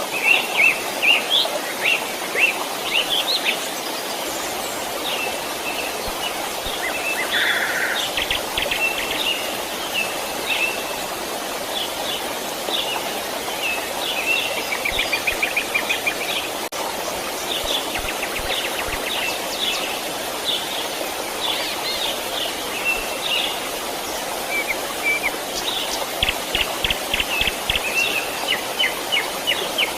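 Small stream flowing steadily, with songbirds chirping and trilling in quick runs of short notes over it.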